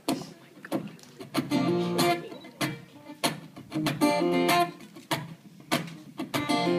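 Acoustic guitar played solo, strummed in a rhythmic pattern of sharp strokes with the chords ringing between them.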